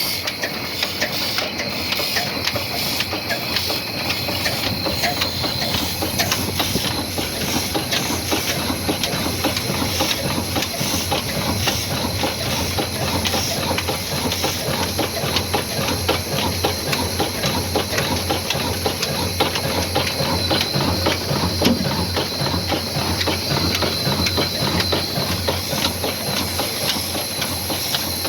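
22 hp slow-speed old black diesel engine running steadily, a dense, rapid mechanical clatter with a strong hiss over it.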